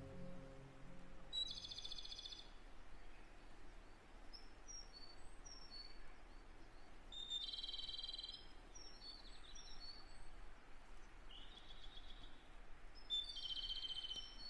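Small birds chirping over a steady background hiss: three short high trills about six seconds apart, with brief single chirps between them. A low musical tone fades out in the first second.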